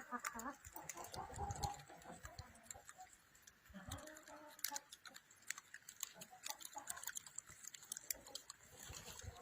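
Chickens making a few soft clucks among scattered light clicks and ticks.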